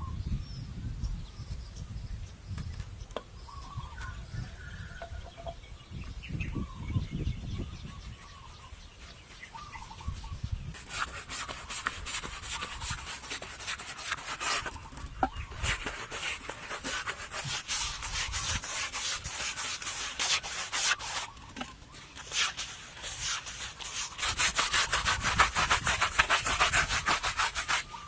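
Rapid rubbing strokes on a hard surface, like hand sanding or scraping, starting about eleven seconds in and going on with a few short pauses, densest near the end. Before that there is a low rumble with a few faint chirps.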